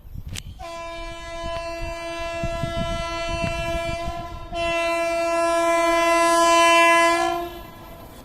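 Indian Railways WAP7 electric locomotive's horn sounding two long blasts, the second louder and starting about four and a half seconds in, with a low rumble under the first.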